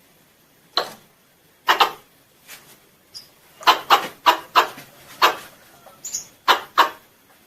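Squirrel calling: a string of short, sharp chirping calls in irregular bursts, thickest in the second half. The calls are used to draw other squirrels in.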